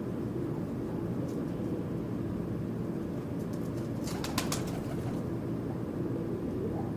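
A bird's wings flapping in a quick flurry of beats about four seconds in, over a steady low background rumble.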